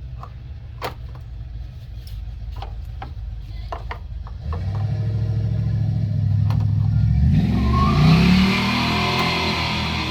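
A motor vehicle engine running, then revving up and accelerating, its pitch rising and getting louder over the last few seconds; a few sharp clicks in the first four seconds.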